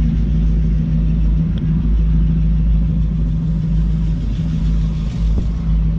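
A trawler's inboard engine running steadily at low speed, a constant droning hum with a deep rumble beneath it.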